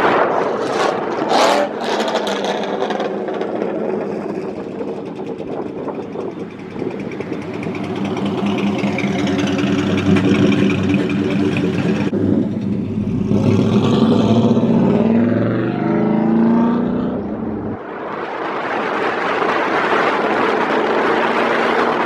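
A car engine revving hard and repeatedly, its pitch climbing and falling. A loud rushing noise takes over for the last few seconds.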